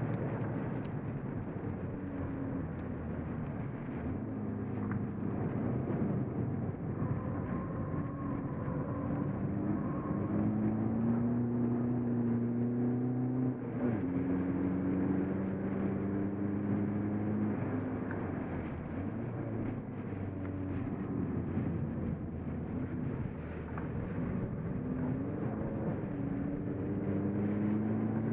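Seat Ibiza TDI's turbodiesel engine heard from inside the cabin, pulling hard on track with its pitch climbing and then dropping back at each upshift, over steady road noise.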